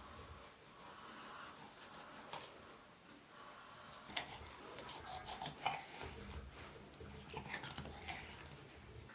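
Scattered light clicks and knocks of kitchen handling, such as utensils and dishes being moved, over a quiet room background. The clicks cluster in the second half.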